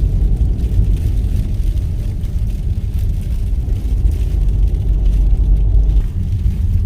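Low, steady rumble of a car driving, heard from inside the vehicle.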